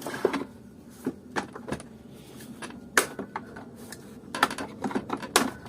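Plastic clicks and knocks from a Kärcher DS5500 vacuum cleaner's housing and handle being handled and pressed during disassembly. There is one sharp click about three seconds in and a quick run of clicks near the end.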